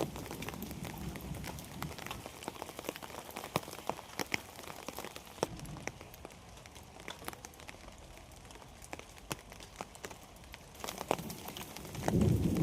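Rain falling, heard as a steady hiss with many irregular drop ticks on nearby surfaces. A louder low rumble comes in near the end.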